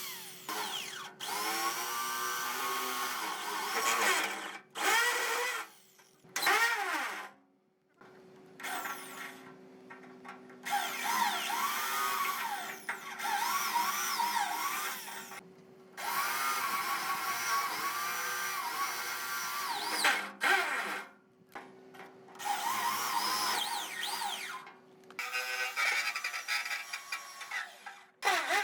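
Handheld power tool running in a series of short stretches that start and stop abruptly, its motor pitch rising and falling as it loads and unloads against metal.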